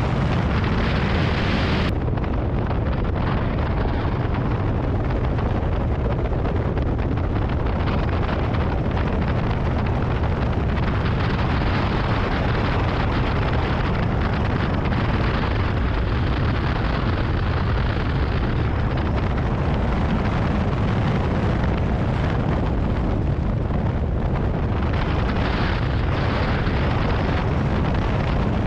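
Heavy wind buffeting the camera microphone: a loud, steady, deep rush with no letup.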